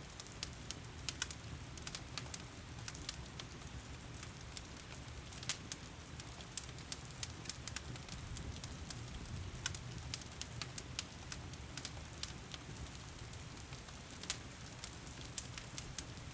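Wood fire crackling with sharp, irregular pops over a steady low rumble, with rain falling behind it.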